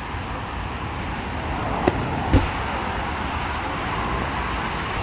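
Two distant firework bangs about half a second apart, the second the louder and deeper, over a steady low background rumble.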